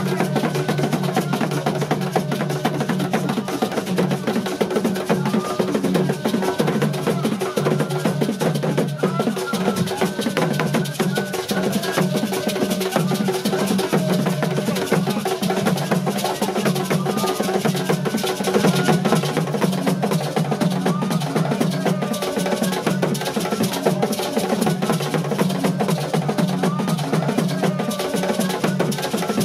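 Festival music of fast, steady drumming with a wooden or bell-like knocking beat running through, over a busy background of many voices.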